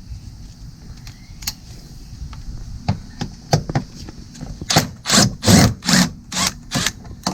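Metal hand tools clicking and clattering: a few light clicks, then a run of six sharp knocks, about two or three a second, a little past halfway through.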